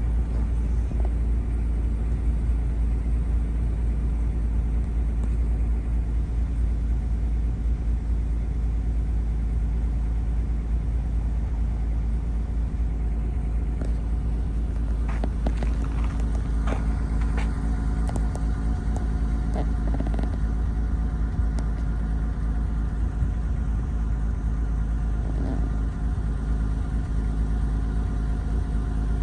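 Steady low rumble of a car, with a few sharp clicks near the middle and faint steady tones coming in over the second half.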